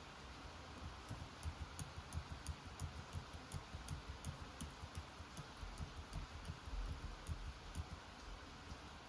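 Computer keyboard typing: a quick run of key clicks, about four a second, starting about a second in and stopping near the end, over a steady hiss of rain.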